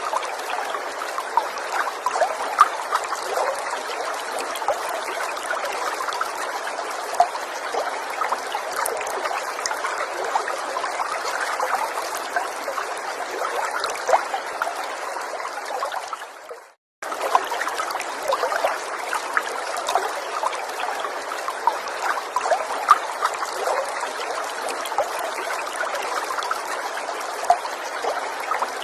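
Gentle forest stream flowing steadily, with small splashes standing out from the water noise. About sixteen seconds in, the sound fades out to a moment of silence and comes straight back, as at a loop point in the recording.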